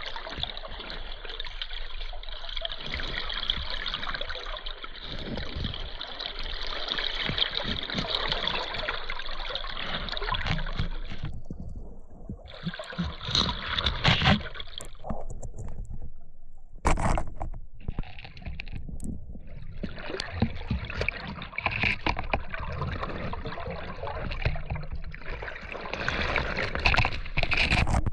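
Muffled rushing and gurgling of river water around a 360 camera that has fallen into the river. The sound drops out suddenly twice about halfway through, with a few sharp knocks in between, then the water noise returns.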